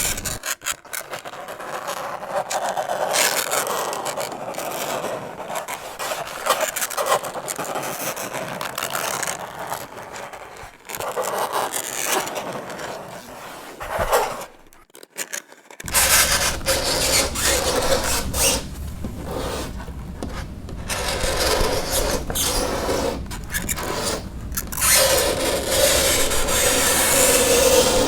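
Fingernails scraping across a chalkboard in repeated strokes, with a held squeal near the start and again near the end, and a brief pause about halfway through.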